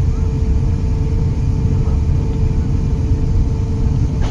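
Steady engine rumble and drone of an airplane in flight, heard inside the passenger cabin, with a constant low hum under it.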